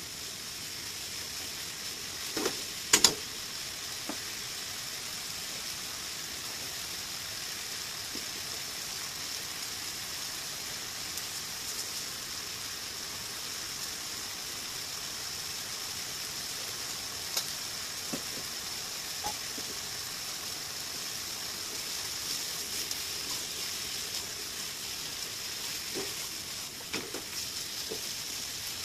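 Stir-fry of pork belly, bamboo shoots and rapeseed blossoms sizzling steadily in a frying pan. Two sharp clacks of the stirring utensil against the pan come about two and three seconds in, with a few lighter knocks later as the food is tossed.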